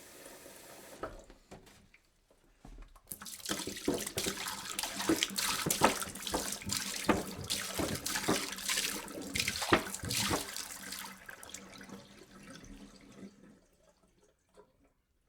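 Water poured into a jug, splashing steadily; the pour starts about three seconds in and tapers off and stops near the end.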